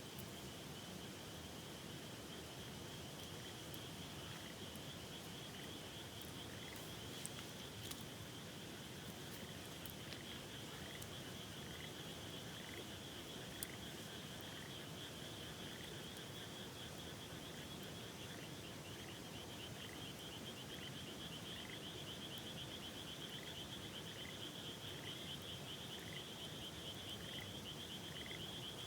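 Frogs calling: a steady pulsing trill that grows stronger in the second half, and a short chirp repeated about once a second. Under them runs the steady rush of a river, and a few sharp clicks come through.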